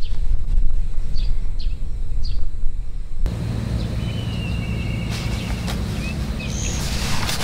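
Small birds chirping in short calls over a steady low rumble. A few seconds in, the background changes to a steadier low hum and a bird gives one drawn-out whistled call, with a few more chirps. Rustling and clicks come near the end.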